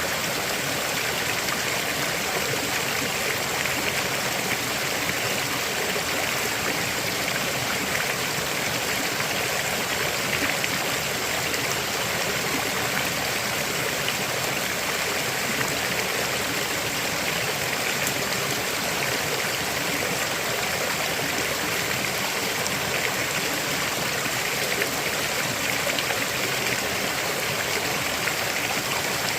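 River water flowing steadily over rocks, an even rushing with a constant level.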